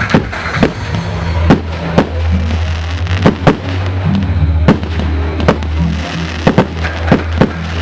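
Firework shells bursting in an irregular run of about a dozen sharp bangs, over music with sustained low notes.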